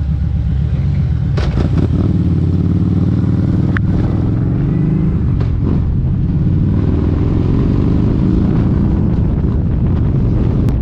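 Kawasaki Vulcan 1700 Vaquero's V-twin engine running under way, its pitch rising and falling as the motorcycle accelerates and shifts.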